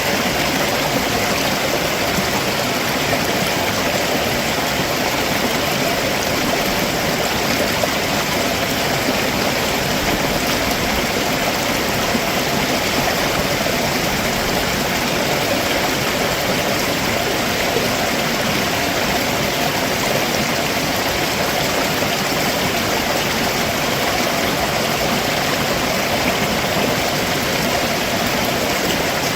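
Stream water running over rocks just below a waterfall, a steady, even rushing.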